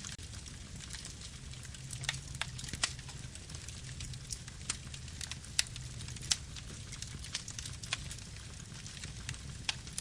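Wood fire burning steadily, with irregular sharp crackles and pops a few times a second over a low rumble of flame.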